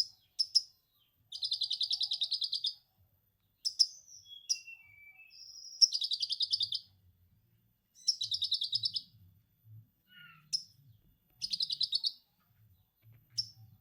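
A konin songbird singing lovebird-style 'ngekek' material: four rapid, high chattering trills about a second long each, separated by short sharp chips and a few brief whistled notes.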